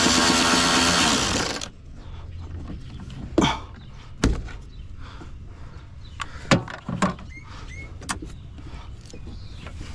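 Power drill running at speed, stopping a little under two seconds in, followed by scattered knocks, clicks and a few short squeaks of truck parts being worked loose.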